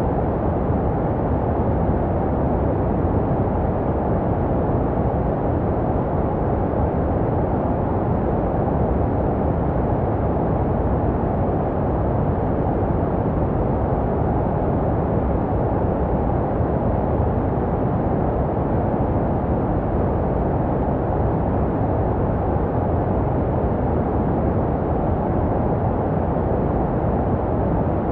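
Continuous baby-sleep white noise: a steady, deep rushing hiss with little treble and no change in level, made to resemble the sound a baby hears in the womb.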